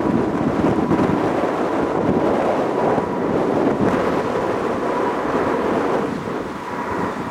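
Boeing 777-300's twin jet engines running at takeoff power as the airliner departs: a loud, steady rumbling roar with a faint steady whine above it.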